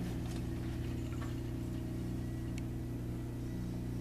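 1942 South Bend lathe running steadily, its motor and drive giving an even hum, with a few faint light ticks.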